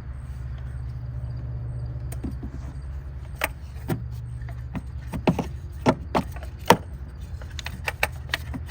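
Plastic car parts clicking and knocking as they are handled and worked back through a rubber gasket, a series of sharp clicks in the second half, over a steady low hum.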